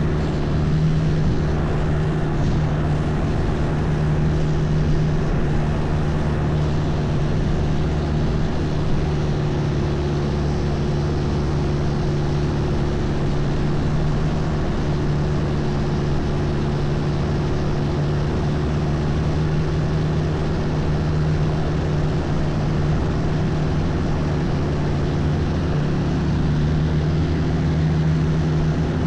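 Long-tail boat engine running steadily under way, a constant drone with a hiss of water and wind behind it.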